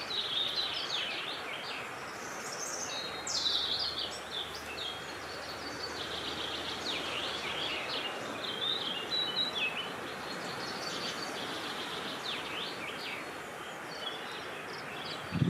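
Several wild birds chirping and singing in quick, high-pitched phrases throughout, over a steady rush of wind.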